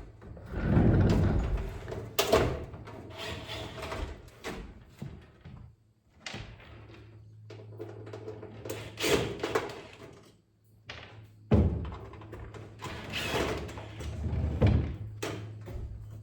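Irregular knocks, clunks and scraping of a microwave oven's sheet-metal case and parts being handled and worked loose during disassembly, with a steady low hum under much of it.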